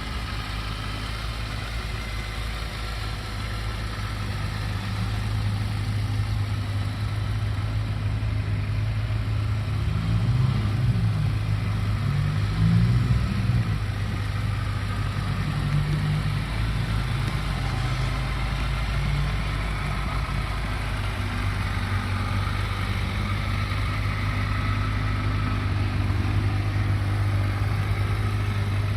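2015 Kawasaki KLZ1000 (Versys 1000) inline-four engine idling steadily, with a few quick throttle blips that raise and drop the revs about ten to thirteen seconds in.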